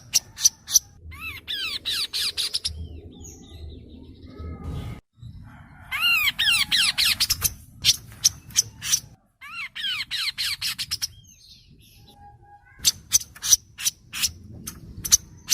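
Kaso-kaso bird singing, as on a bird-training recording. Rapid sharp clicking notes alternate with quick trills of falling whistled notes, in phrases broken by short pauses, over a low background rumble.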